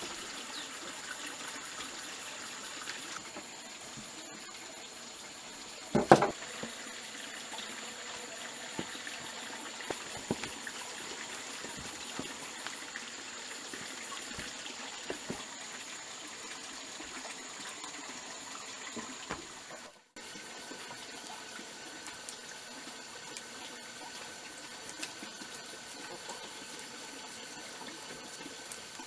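Water trickling and splashing over a steady background with a constant high tone. There is one sharp knock about six seconds in, and the background changes abruptly about twenty seconds in.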